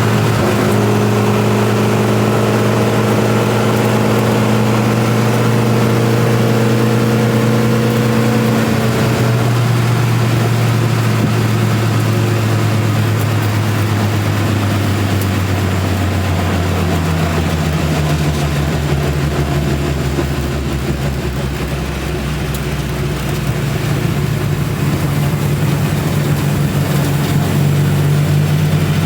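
Twin Saab engines of a Mark III Astra van running at fairly steady revs, a loud, even drone heard from inside the van. The note dips a little about nine seconds in and settles to a different steady pitch about sixteen seconds in.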